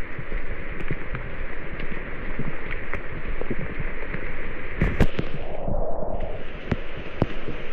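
Steady rushing water noise with many scattered sharp taps, the sound of rain and wet-weather water close to the microphone.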